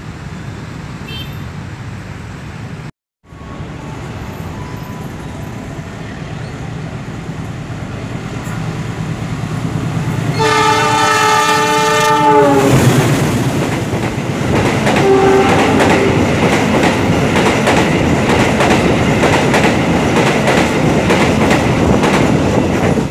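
A KAI diesel locomotive sounds its horn, a chord held for about two seconds that sags slightly in pitch at the end as it passes. It and its passenger carriages then go by close at speed, with loud rumbling and clickety-clack from the wheels over the rail joints. Before the horn, the rumble of the approaching train grows steadily louder.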